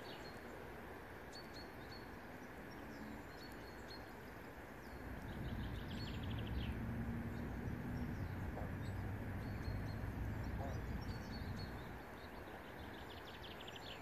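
Small birds chirping and trilling over a steady outdoor hiss. From about five seconds in, a low rumble with a steady hum swells up, then fades again by about twelve seconds.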